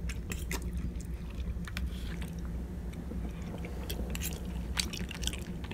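Close-up chewing of a mouthful of chicken from a frozen meal, with scattered wet mouth clicks, over a steady low hum.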